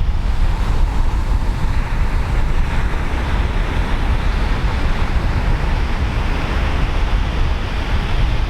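Pacific Ocean surf breaking and washing steadily, with wind buffeting the microphone as a fluttering low rumble.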